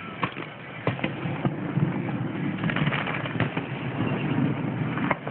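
Fireworks going off, several sharp, irregular pops over a steady outdoor rumble.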